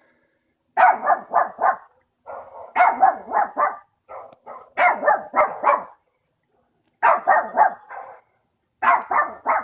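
Rapid barking in five bursts of three to five barks each, at roughly four barks a second, with short silent pauses between the bursts.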